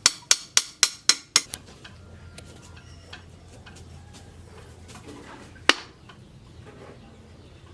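Hand hammer striking metal: a quick run of about six ringing blows in the first second and a half, then a pause and a single blow a little before the end. A faint low steady hum sits underneath after the blows stop.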